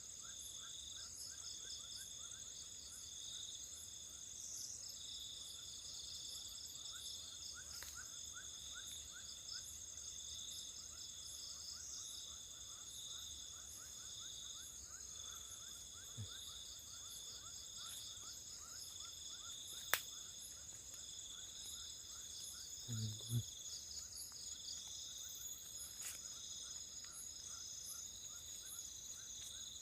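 Night insect chorus: several crickets trilling steadily at different high pitches over a quicker, lower run of chirps. A single sharp click comes about two-thirds of the way through, and a short low thump follows a few seconds later.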